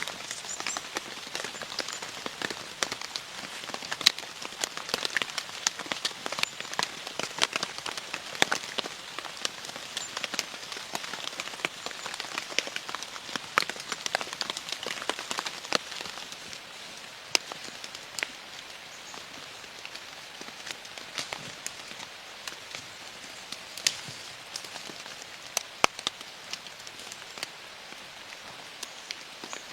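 Rain pattering: a steady hiss dotted with many sharp drop ticks, the patter thinning about halfway through.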